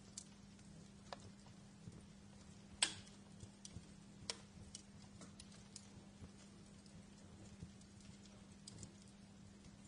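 Wood fire crackling in a fireplace: irregular sharp pops and snaps, the loudest about three seconds in, over a faint steady hiss and low hum.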